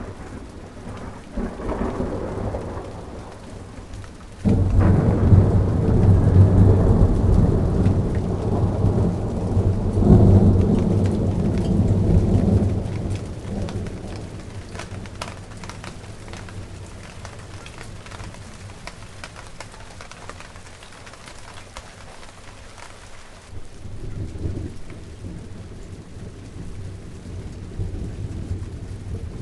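Steady rain falling, with a roll of thunder that breaks in suddenly about four seconds in, stays loud for several seconds and slowly dies away. A fainter rumble of thunder comes near the end.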